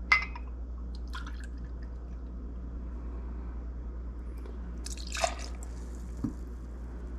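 Rum being poured and measured out, with light dripping and a few sharp glass clicks and clinks, the loudest about five seconds in, followed by a dull knock.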